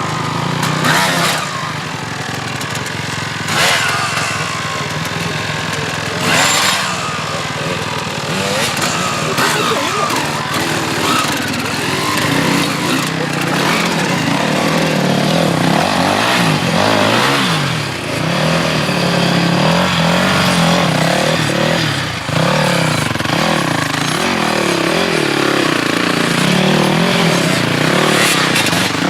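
Motorcycle engines running, with brief louder surges about one, three and a half, and six and a half seconds in, then a steady drone whose pitch wavers up and down.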